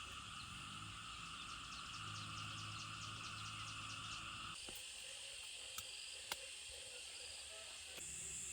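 Faint steady outdoor ambience of chirring insects, which changes abruptly about halfway through; two sharp clicks follow shortly after.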